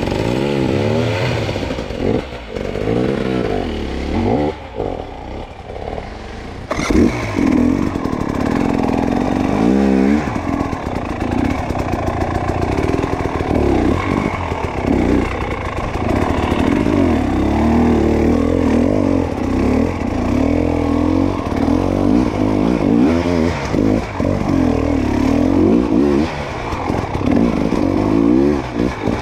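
Dirt bike engine revving up and down over and over, its pitch rising and falling every second or so, louder from about seven seconds in.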